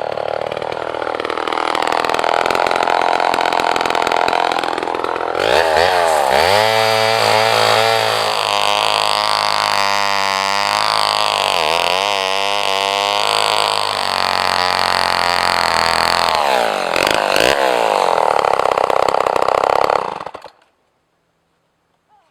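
Chainsaw running steadily, then opened to high revs and worked under load, its pitch sagging and recovering as it cuts, until the engine cuts off suddenly near the end.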